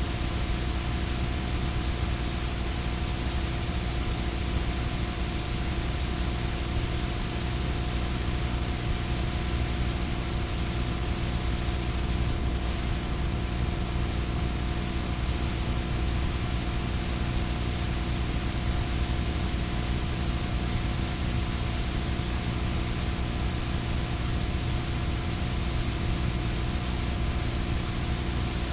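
Steady recording hiss with a low hum made of several steady tones, unchanging throughout, typical of noise on a videotape recording with no other sound on it.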